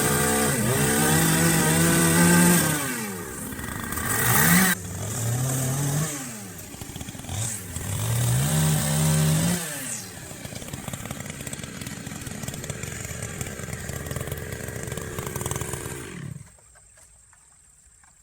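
Chainsaw revving up and down several times, then running at a lower, steadier speed before it is shut off abruptly about three-quarters of the way through.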